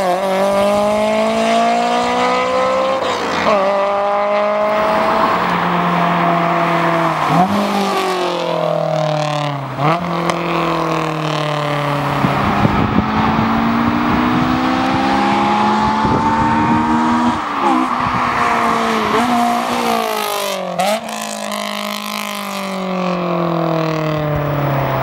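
Honda S2000's four-cylinder engine, breathing through an Invidia Q300 exhaust with the catalytic converter removed, pulling hard with a loud rasp. The pitch climbs and drops sharply about five times as it shifts up through the gears, then falls steadily near the end as the car slows.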